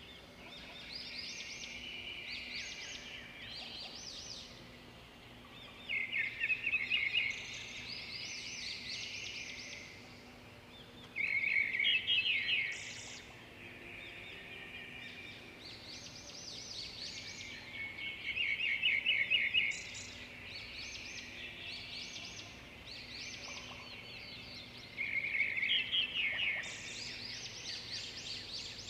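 Songbirds singing: a loud phrase of rapid trilled notes comes back about every six or seven seconds, five times in all, with softer chirping in between and a faint steady low hum underneath.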